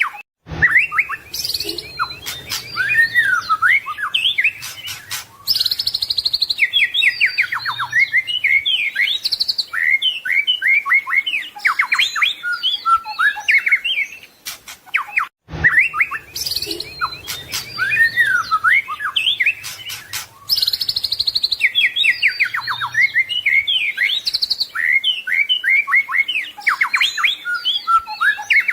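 White-rumped shama (murai batu) singing a long, varied song of rapid trills, whistles and mimicked phrases of other birds. The same passage of about fifteen seconds plays twice in a row, a looped recording.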